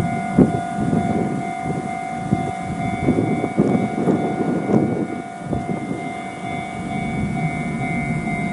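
Fujikyu electric train standing at the platform, giving off a steady electrical whine of several fixed pitches over a low rumble, with a few light clicks.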